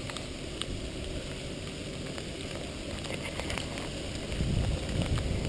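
Jeep Wrangler's engine running under load as it crawls up a muddy rut, with scattered small ticks. The engine grows louder about four seconds in.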